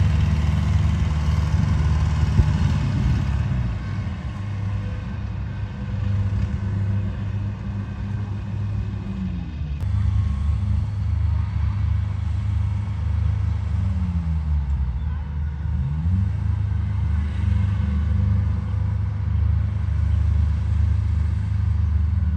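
Diesel engine of heavy farm machinery running steadily. Its pitch drops about nine seconds in, and dips and climbs back about fifteen seconds in, as the engine is throttled down and up.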